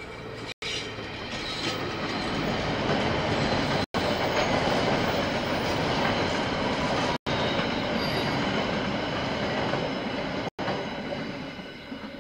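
KiwiRail train passing close by, a steady rolling rumble of wheels on the rails that builds up, holds for several seconds and fades near the end. The recording cuts out briefly four times.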